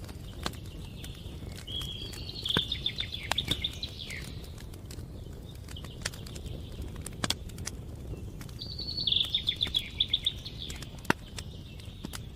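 Wood fire crackling, with scattered sharp pops over a steady low rumble. Over it a bird sings two short phrases of fast repeated notes, one about two seconds in and one near nine seconds.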